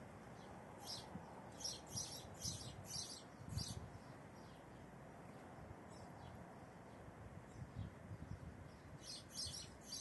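Small birds chirping in quick runs of short, high chirps, one run from about a second in to nearly four seconds and another near the end, over a faint background hiss.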